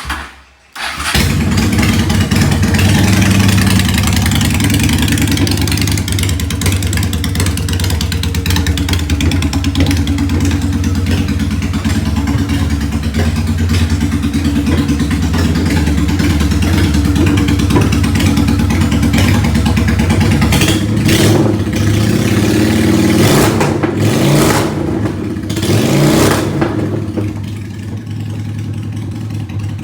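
Honda Shadow 750 V-twin firing up about a second in through a loud exhaust, then running steadily. It is revved briefly three times in the latter part and settles back to a quieter idle near the end.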